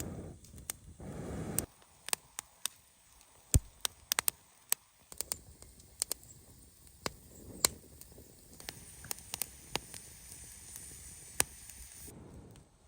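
A short rustle at the start, then a wood campfire crackling: sharp, irregular pops and snaps over a faint hiss.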